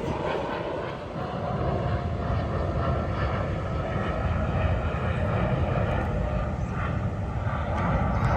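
Jet airliner flying over, a steady low engine rumble with a faint steady whine above it.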